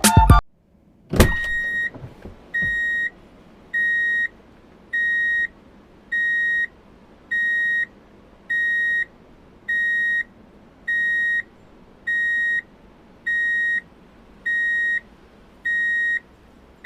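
Electronic beeper sounding a steady series of even, high single-tone beeps, about one every second and a bit, like a vehicle reversing alarm. A sharp click comes just before the beeping starts.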